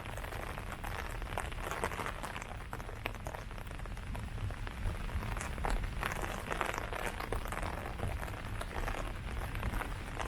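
Steady rain pattering on leaves, with many separate drops ticking and a low rumble beneath.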